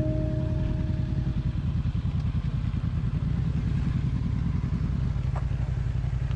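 Yamaha MT-07's parallel-twin engine running steadily with a low, rapid pulsing exhaust note, heard close to the bike. The tail of a music track fades out in the first second.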